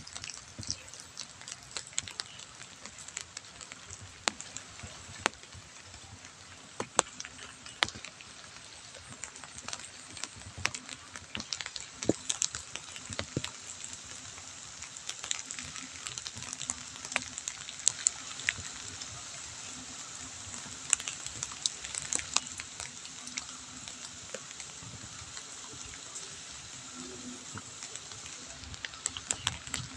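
Light drizzle falling on wet ground: a steady fine hiss with scattered sharp ticks of individual drops, over a faint steady low drone.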